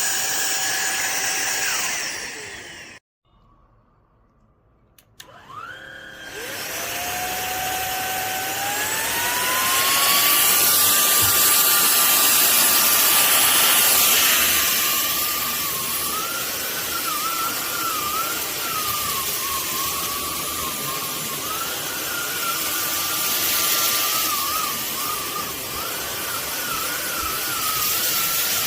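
Cordless stick vacuum cleaner's motor running, winding down and stopping about two to three seconds in, then starting again with a rising whine that settles into a steady run. Later its pitch wavers up and down as the load on it changes.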